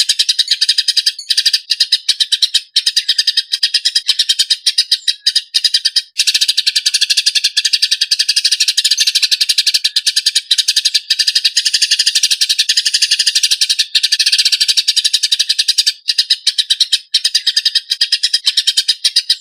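Eurasian tree sparrows chirping in a fast, tight, harsh stream of calls: the agitated calling of sparrows fighting. The chirps run almost without pause, broken by a few short gaps.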